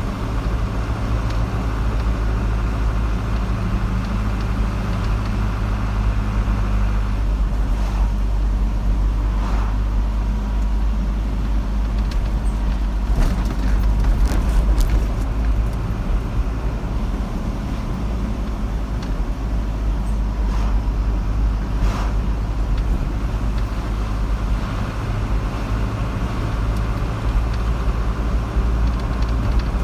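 Steady road noise and low engine hum of a car driving, with a few brief clicks or knocks about halfway through.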